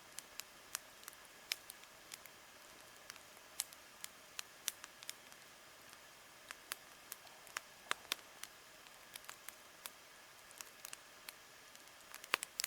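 Wood campfire crackling: sharp, irregular pops and snaps, sometimes in quick clusters, over a faint steady hiss.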